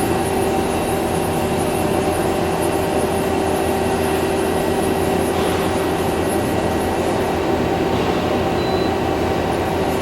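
Okuma Genos L250E CNC turning center running under power: a steady machine hum with several held tones.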